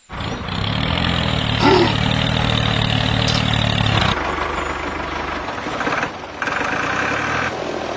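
Tractor engine running steadily, changing in tone about four seconds in, with a short drop just after six seconds.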